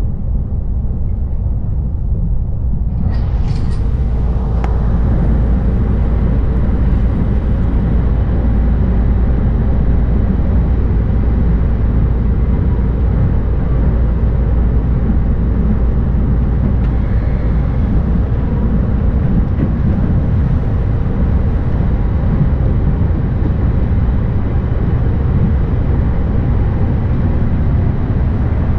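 JR East E531-series electric train running, heard from inside the carriage: a steady, even rumble of wheels on track, brightening a little about three seconds in.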